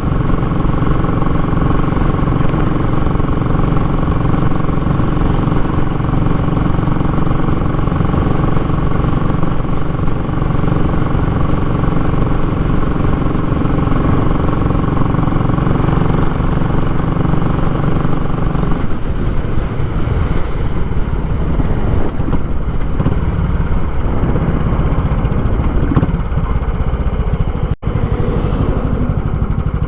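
Royal Enfield Classic 500's single-cylinder engine running through a short, unbaffled muffler, a steady, even exhaust note that turns rougher and less even about two-thirds of the way in. A momentary break in the sound comes near the end.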